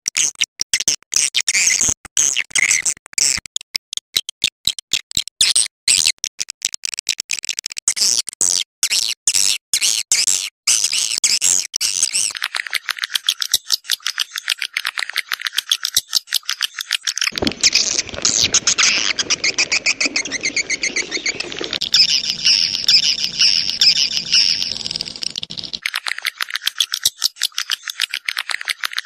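Recorded swiftlet call sound for luring swiftlets into a swiftlet house: swiftlets twittering in rapid, high chirping trills. The trills come in quick runs with short gaps at first, then run together into a dense, continuous twitter, with a lower noisy layer beneath for several seconds in the second half.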